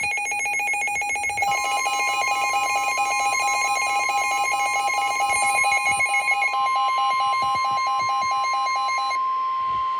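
Weather radio warning alarm: a rapid electronic beeping, about four or five beeps a second, joined about a second and a half in by a steady high warning tone. The beeping stops about nine seconds in while the steady tone carries on. This is the alert that comes before a severe thunderstorm warning.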